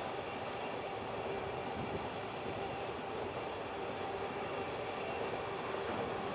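Empty iron-ore wagons of a very long freight train rolling past on the track: a steady rolling noise of wheels on rail with a faint steady tone.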